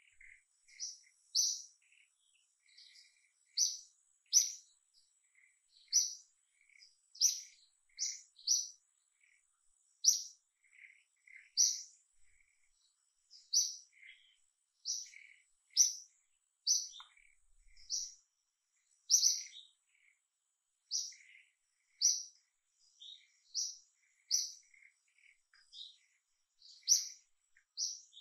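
A bird calling over and over with short, high chirps, one every second or two, with fainter chirps from other birds behind it.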